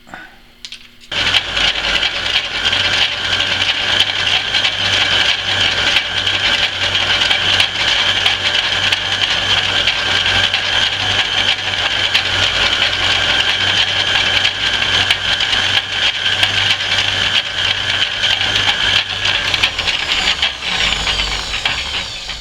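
Antique Rockford metal lathe starting up about a second in and running steadily through a boring cut with a boring bar in steel, then spinning down near the end with falling pitch.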